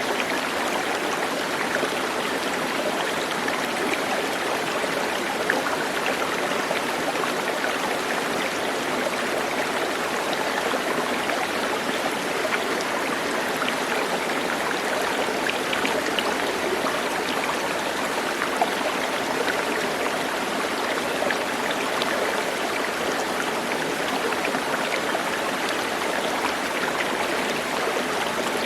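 Steady rushing of a flowing stream, an even unbroken water sound with fine splashy detail and no change in level.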